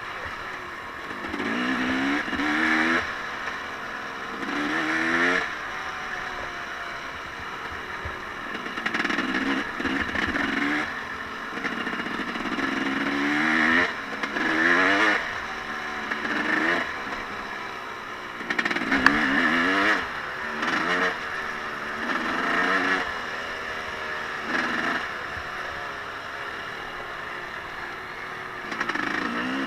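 Off-road vehicle engine being ridden, revving up again and again: about ten bursts of throttle, each rising in pitch, a few seconds apart.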